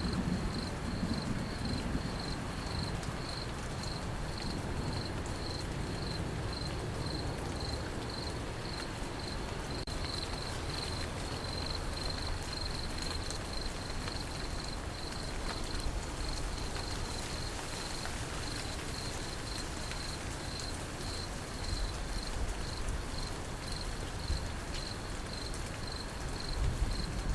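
Crickets chirping in a steady, even pulse over light steady rain. A low rumble of thunder fades out in the first couple of seconds, and another begins to build right at the end.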